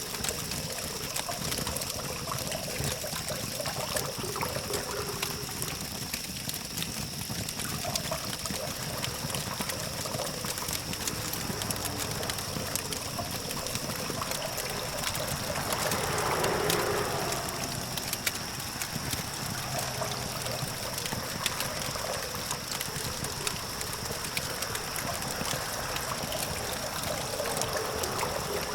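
Campfire crackling with frequent sharp pops over a steady hum of distant traffic. About 16 seconds in, a passing vehicle swells louder and fades.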